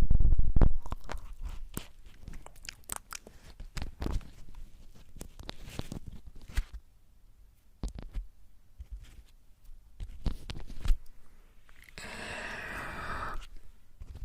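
Close-miked crackling and crunching with scattered sharp taps, then a burst of hissing noise about twelve seconds in.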